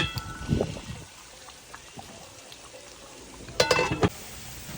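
Metal cookware in a kitchen: a sharp clink that rings briefly, a dull knock half a second later, then a louder ringing clatter of metal about three and a half seconds in, over a low steady liquid sound.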